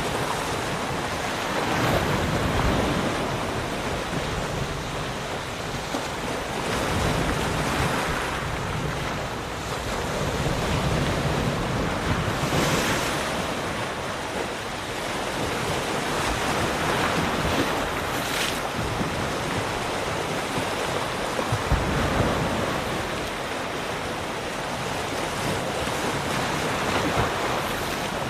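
Ocean surf: waves breaking and washing in, a steady rush of water that swells and ebbs every few seconds, with hissier surges about thirteen and eighteen seconds in.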